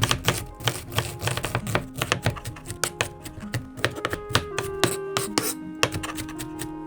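Knife chopping food on a cutting board in quick, irregular strokes, over background music.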